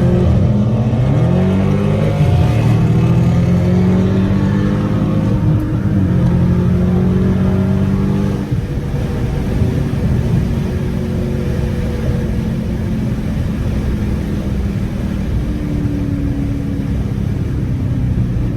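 Dodge Charger Scat Pack's 392 Hemi V8 accelerating hard, its pitch climbing in the first couple of seconds and holding loud, then easing off about eight seconds in to a quieter steady cruise.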